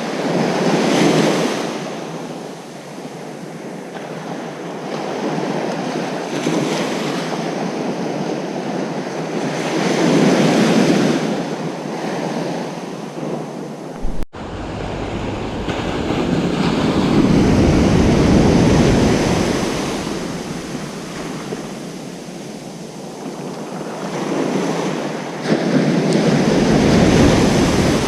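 Ocean surf: waves breaking on a beach and washing back, swelling up roughly every eight seconds. There is a momentary dropout about halfway through, after which a low rumble joins the wash.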